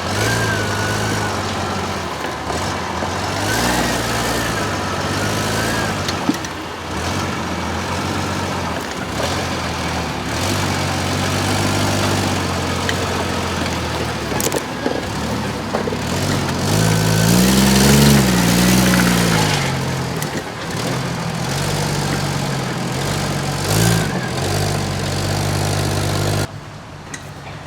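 Off-road 4x4 vehicle's engine at low revs, its pitch rising and falling repeatedly as the throttle is worked, with the strongest rev about two-thirds of the way through, and scattered knocks. The sound drops off suddenly shortly before the end.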